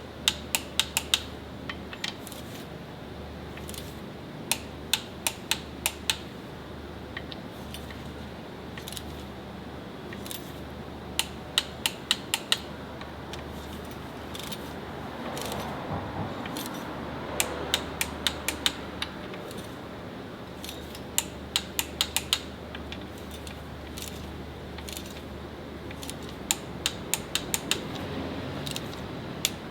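Quick clusters of sharp metallic clicks, three to six at a time, recurring every few seconds over a steady low hum.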